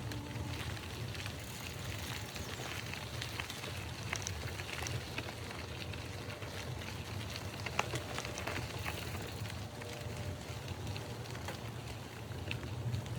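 Scattered light crackles and clicks over a steady low rumble, with no speech.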